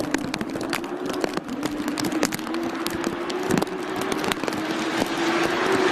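A motor running at a steady pitch, with many sharp irregular clicks over it.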